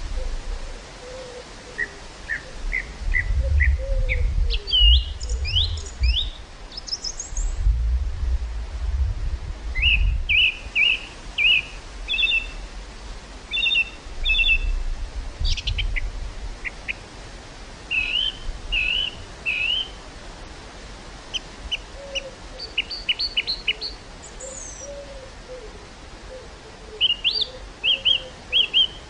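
Several birds chirping and trilling, with a low cooing call repeating now and then. Gusts of wind rumble on the microphone in the first third and again near the middle, then ease off.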